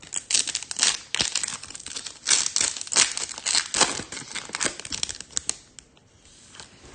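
Foil wrapper of a Topps Chrome trading card pack being torn open and crinkled by hand, a run of crackling rustles that dies down about five and a half seconds in.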